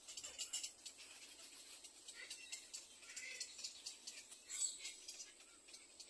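Birds chirping in quick high-pitched runs, with a louder run about four and a half seconds in.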